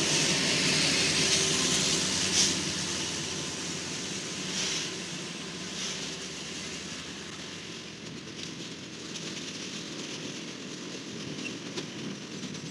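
Freight flatcars rolling past on steel wheels: a steady rumble and rush of wheels on rail with a few sharp clanks. It grows gradually quieter after the first couple of seconds.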